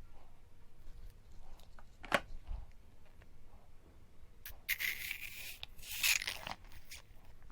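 Plastic packaging of a frozen dessert being handled and torn to make a small opening. There are scattered light clicks and rustles, then two short tearing, hissing sounds about five and six seconds in.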